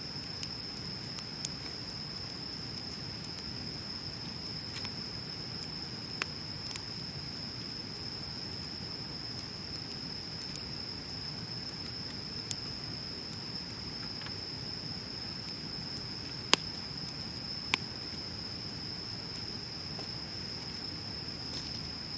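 Wood bonfire burning with a low steady rush and scattered sharp crackles and pops, two much louder pops late on. Behind it runs a steady high-pitched insect trill.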